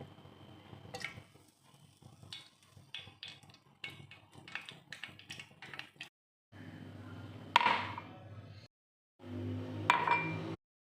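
Kitchenware clinking and tapping: a run of small light taps, then two sharper clinks about two seconds apart that each ring briefly.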